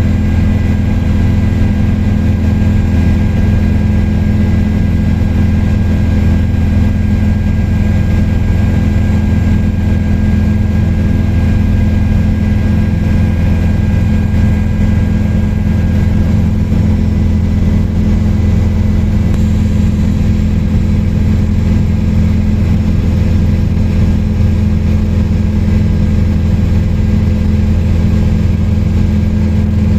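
Helicopter in flight: a loud, steady drone of engine and rotor with several constant humming tones. A fainter high whine fades out about halfway through.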